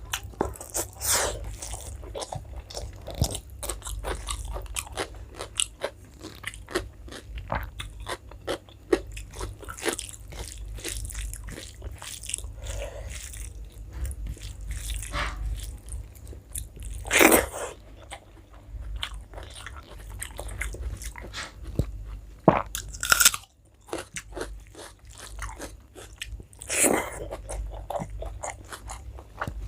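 A person chewing and eating rice with curry, with many small wet mouth clicks and smacks throughout and a few louder bites or crunches about 17, 23 and 27 seconds in.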